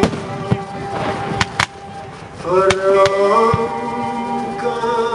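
Music with long held notes and singing plays through the fireworks show, with several sharp firework bangs going off: two near the start, two in quick succession about a second and a half in, and more around three seconds in.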